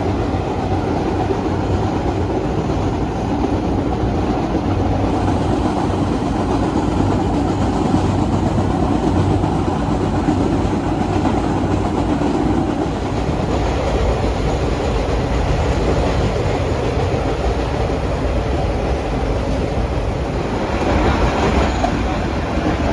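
1930s-built R1-9 'Arnine' subway cars running along the track, heard from on board as a steady, continuous train rumble. The sound grows brighter and a little louder near the end.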